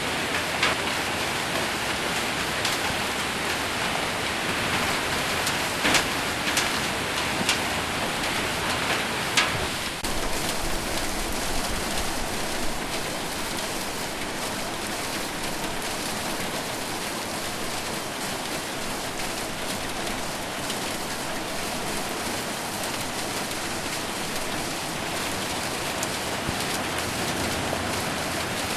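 Heavy rain with hail on a metal roof: a steady dense patter, with a few sharp separate hits in the first ten seconds or so, then a more even downpour.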